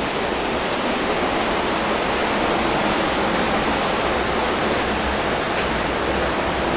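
Steady rush of a stream flowing through a concrete underground tunnel, an even, unbroken noise.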